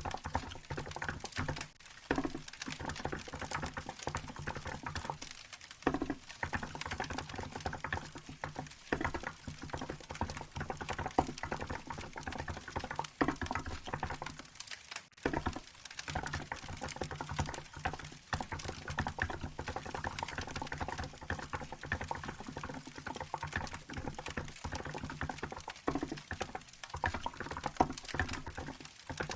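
Continuous typing on a Hansung GK868B keyboard with 'milk' keycaps: a steady run of irregular keystroke clacks, with a few brief pauses. Underneath is the crackle and pop of a wood fire.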